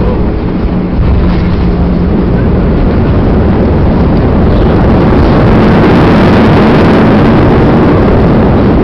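Airbus A320 rolling out on the runway just after touchdown, heard inside the cabin: a loud, steady rush of jet engine and wheel-rumble noise as the aircraft decelerates. The noise builds over the first few seconds to a peak about six seconds in, typical of reverse thrust being applied, then eases slightly.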